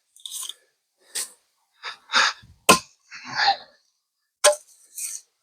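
Split firewood and an axe knocking and clattering: a series of separate sharp wooden knocks and shorter scuffs, about eight in five seconds, the sharpest a little under three seconds in.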